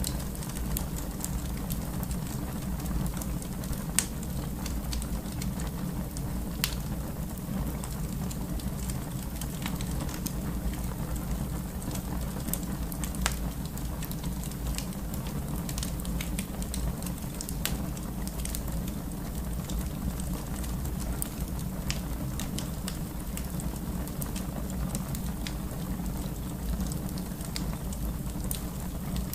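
Wood fire burning in a fireplace: a steady low rumble of the flames with scattered sharp crackles and pops, one louder pop about four seconds in.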